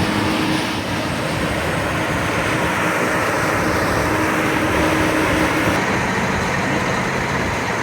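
Cog railway train running steadily, a loud hiss with a low hum of its engine underneath.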